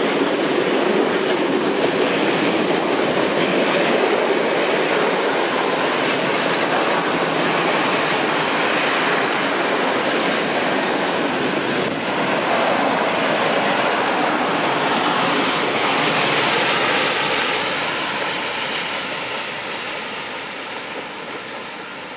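Freight train wagons rolling past on the track in a loud, steady rush of rail noise that fades away over the last few seconds as the train moves off.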